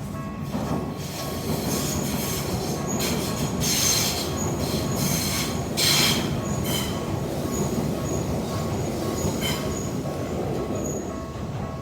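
A Keikyu 600-series train passing over a level crossing: a rumble of wheels on rail with a run of clattering knocks at the rail joints, the loudest about six seconds in, and short high-pitched wheel squeals. The crossing's warning bell keeps ringing faintly underneath, plainest at the start and end.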